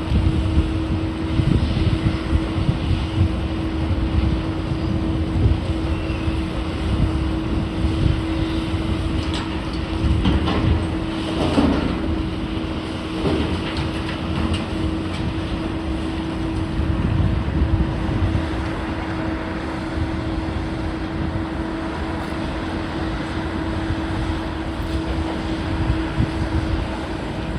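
Demolition machinery running steadily with a constant low hum and a rumbling low end, with a few clanks and crunches near the middle.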